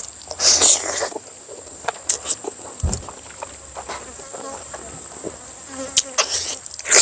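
Steady high-pitched drone of insects, with noisy bursts of someone eating, bites, chewing and slurping, about half a second in and again near the end, and small clicks in between.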